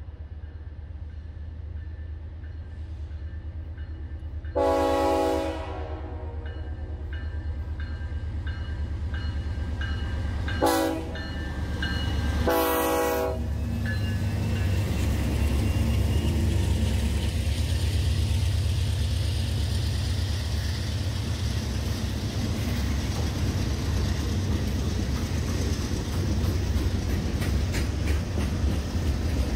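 A train sounds its horn three times: a long blast about five seconds in, then a short one and a slightly longer one close together about six seconds later. Its low rumble grows louder as it comes closer and passes, with wheels clattering on the rails.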